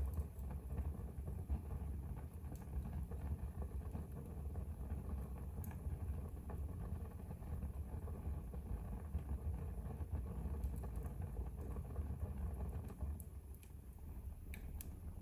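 Wood fire burning in a fireplace: a steady low rumble of the flames with occasional sharp crackles and pops, a few more of them near the end.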